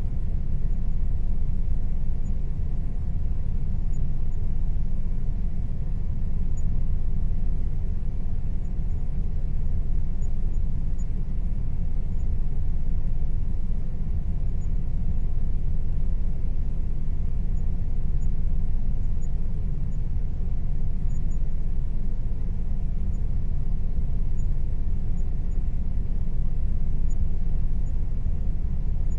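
Air conditioner running steadily: a constant low rumble with a faint steady hum above it.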